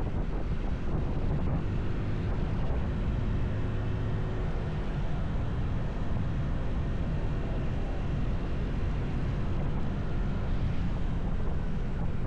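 Wind rumbling steadily on the microphone of a moving motorcycle, with the bike's engine faintly heard under it for a few seconds.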